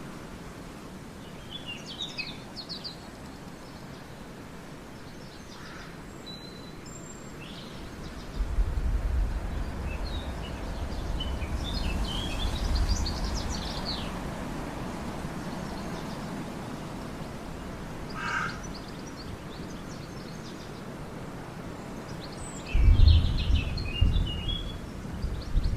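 Wild birds chirping in short scattered phrases over steady outdoor background noise, with a low rumble welling up about a third of the way in and again near the end.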